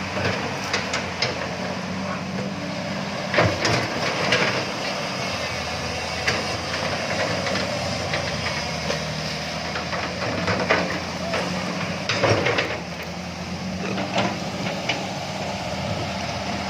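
Truck engine running steadily, with scattered sharp knocks and clatter over it, the loudest a little past the first few seconds and again about twelve seconds in.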